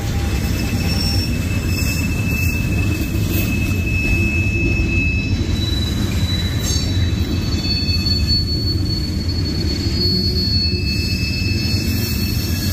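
Freight train cars, mostly covered hoppers, rolling past at a steady pace: a continuous low rumble of wheels on rail, with thin, high wheel squeals that come and go.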